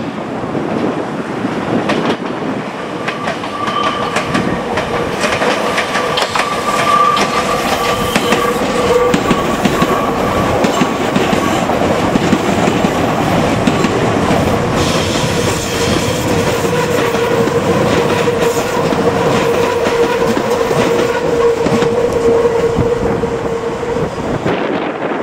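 Meitetsu electric train passing, its wheels clattering over the rail joints, with a steady whine held through most of the pass.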